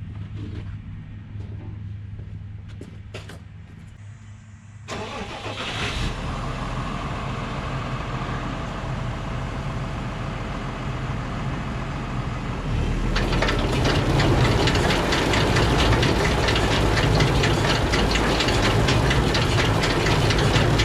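A tractor and New Holland BB940 large square baler starting up after its pickup-head chains have been tightened: a low hum for the first few seconds, then machinery noise that rises sharply about five seconds in and steps up again around thirteen seconds into a loud, steady run with a rapid clatter.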